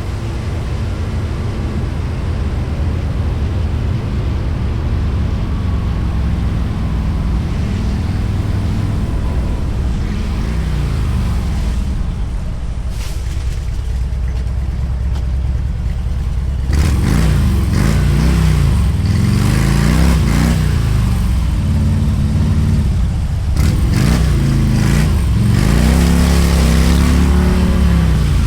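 Motorcycle running in traffic, its engine note steady at first, then louder from about halfway through, rising and falling again and again with the throttle.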